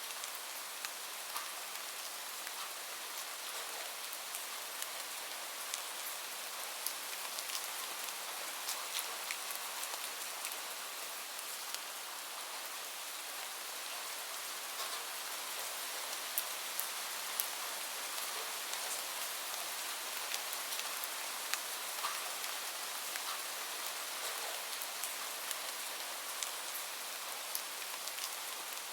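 Steady rain, a continuous hiss, with many small sharp ticks scattered through it.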